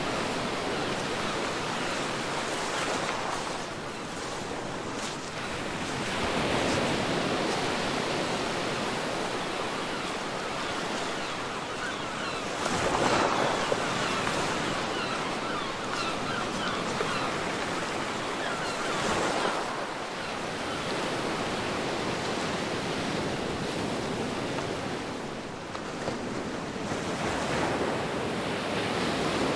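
Ocean waves breaking on a beach, each wave surging up about every six seconds over a continuous hiss of surf.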